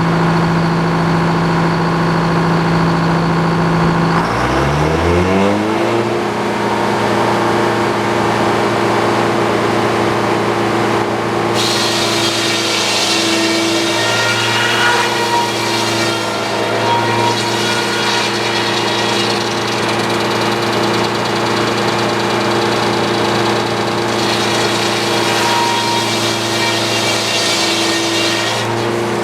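Portable sawmill engine running steadily, then throttled up about four seconds in, its pitch rising and settling at full speed. About twelve seconds in, the blade starts cutting through a white pine log, adding a loud sawing hiss that lasts until just before the end.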